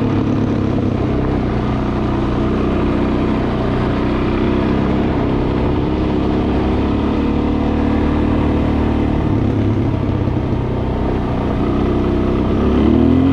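Dual-sport motorcycle engine running steadily under way, its pitch rising as it speeds up near the end.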